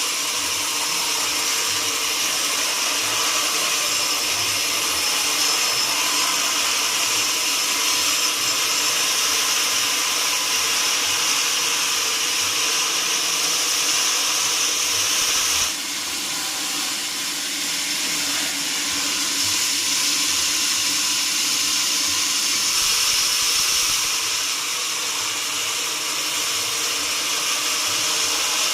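Sawmill saw running steadily through mahogany wood with a high whine and hiss. The sound drops suddenly about sixteen seconds in, then picks up again.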